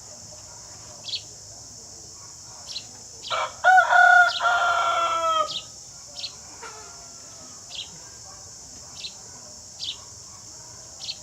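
Sparrows chirping: short high chirps repeating roughly once a second. A rooster crows loudly, about two seconds long, a few seconds in. A steady high buzz of insects runs underneath.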